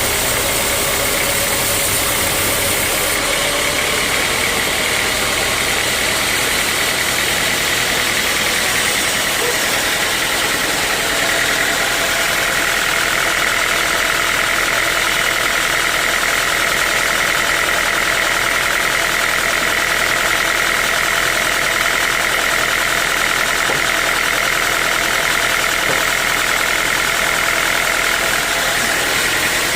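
Sawmill saw and its drive running steadily while sawing a mahogany log, a constant mechanical din with a higher whine that strengthens about eleven seconds in.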